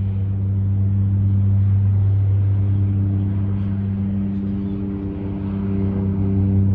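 Light propeller plane's piston engine running with a steady low hum and overtones, growing louder toward the end.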